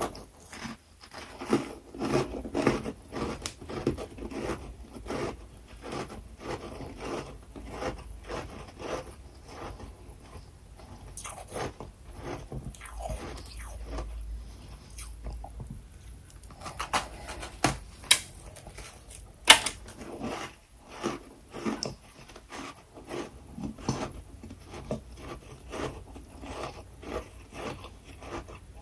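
Freezer frost being bitten and chewed close to the microphone: a dense, irregular run of crisp crunches, several a second, with a couple of louder bites about two-thirds of the way through.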